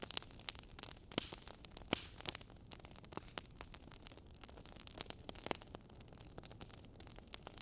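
Wood fire crackling: irregular sharp pops and snaps, several loud ones about a second and two seconds in and again near five and a half seconds, over a soft steady hiss.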